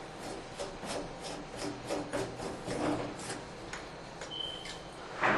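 A run of irregular scraping and rubbing strokes, roughly two or three a second, as the old escutcheon trims are worked loose from the stems of a three-handle tub and shower valve, with a sharper, louder scrape at the very end.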